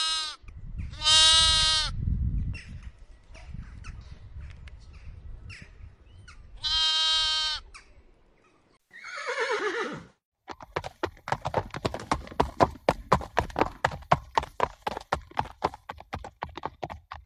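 A lamb bleating three times, each call wavering. Then a horse whinnies, falling in pitch, followed by a fast, uneven run of hoofbeats clip-clopping.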